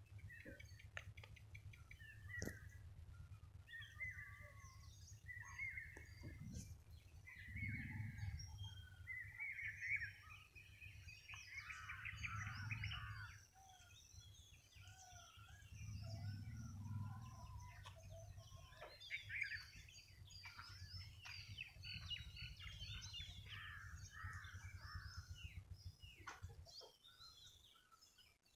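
Several birds chirping and calling in short, overlapping phrases, with a steady low rumble underneath that swells a few times and stops near the end.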